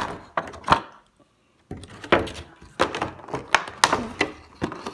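Cardboard collector's box being handled and pried at: a run of knocks, taps and scrapes, broken by a moment of dead silence about a second in.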